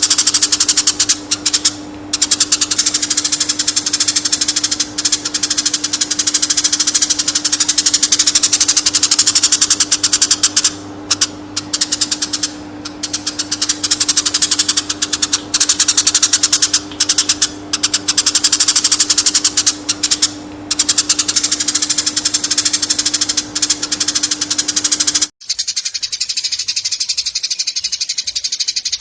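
Eurasian tree sparrow chirping rapidly and almost without pause, with a steady electrical hum underneath. About 25 seconds in the recording cuts abruptly and the chirping goes on without the hum.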